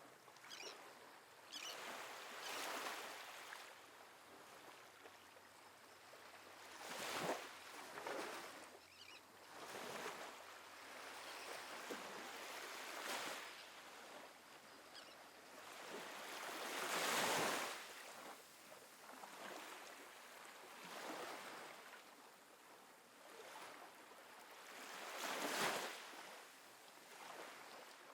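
Gentle ocean waves washing onto a beach, the surf swelling and falling away every few seconds, with the loudest wash about two-thirds of the way in.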